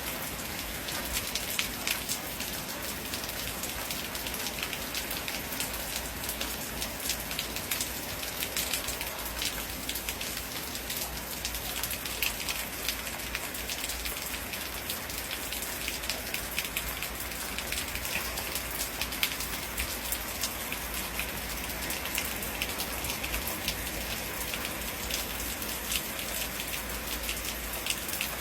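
Steady heavy rain falling on a hard surface: a dense hiss with countless sharp drop impacts and no thunder.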